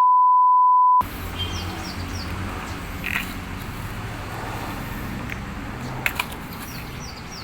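A steady electronic beep at one pitch for about a second, cutting off abruptly. Then an outdoor background with a low steady rumble, small birds chirping now and then, and a few faint clicks.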